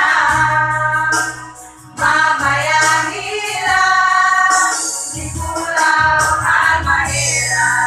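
Women's choir singing held notes together over an instrumental accompaniment with a sustained bass line, briefly dropping away about two seconds in before coming back in.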